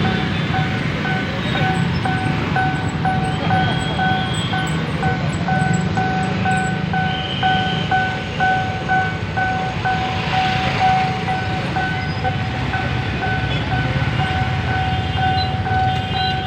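Railway level-crossing warning bell, an electronic ding repeating evenly about three times a second, over a steady rumble of road traffic.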